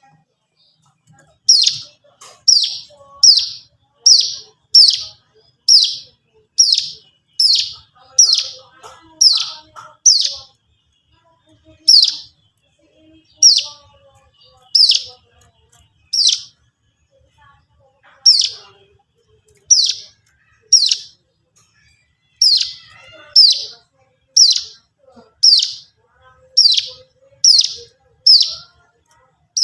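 Ciblek gunung (mountain prinia) song: short, sharp notes sweeping down in pitch, repeated about once a second in runs broken by brief pauses.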